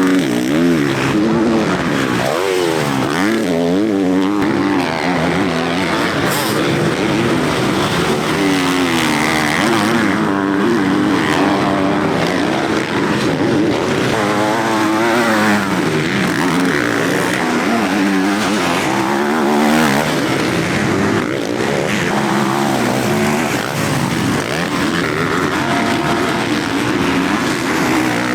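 Several motocross bikes racing, their engines overlapping and revving up and down again and again as the riders work through the gears.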